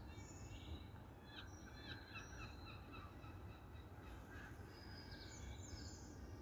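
Small birds chirping and singing faintly: many short, high notes scattered throughout, over a steady low background rumble.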